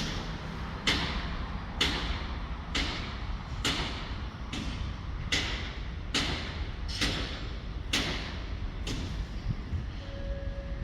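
Passenger train running on jointed track: the wheels knock over the rail joints at a steady pace, about one knock a second, over a low running rumble. A horn tone begins near the end.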